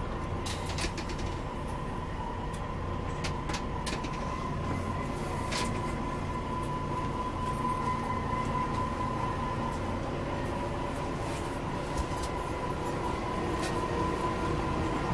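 Interior running noise of a Plaxton Elite Volvo B9R coach on the move: a steady low rumble with a constant high hum, and scattered light rattles and clicks.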